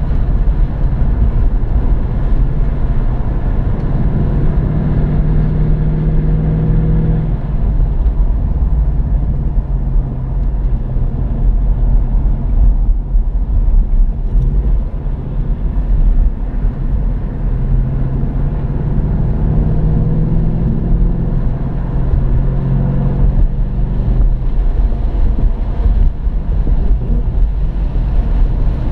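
2015 Ford Mustang GT's 5.0-litre V8 heard from inside the cabin, running steadily under road and wind noise. The engine note climbs and holds a few seconds in, drops back, then climbs again about two-thirds of the way through before easing off.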